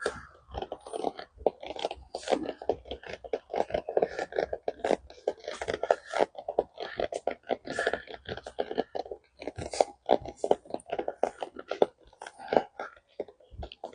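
Crunching and clicking from a draft horse being ridden at a walk: a dense, irregular run of short crunches, several a second.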